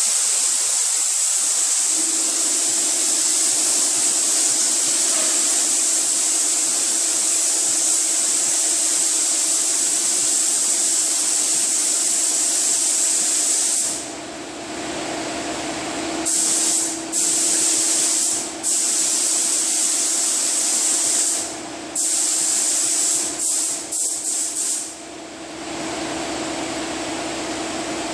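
Paint spray gun hissing steadily as a coat of paint is sprayed on, then triggered in a string of shorter bursts that stop a few seconds before the end. A steady hum runs underneath.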